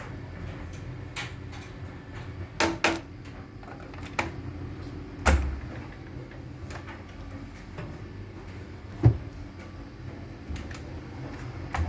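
Hoover H-Wash 500 washing machine running in service test mode: a steady low hum with several sharp clicks and clunks, the loudest about nine seconds in.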